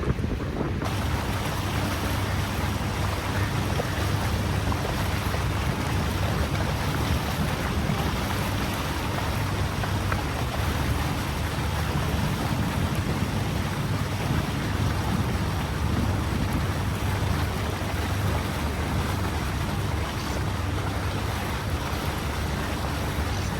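Steady rushing noise, with a constant low engine drone underneath.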